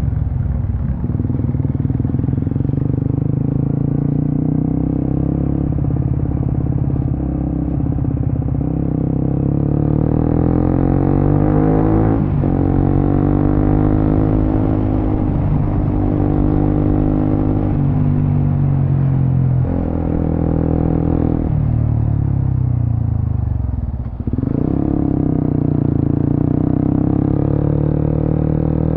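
Suzuki GSX-S150's single-cylinder engine breathing through an aftermarket Quinze Big Volume exhaust while riding, its pitch rising and falling with throttle and gear changes. There is a brief drop in revs about 24 seconds in, then it climbs again.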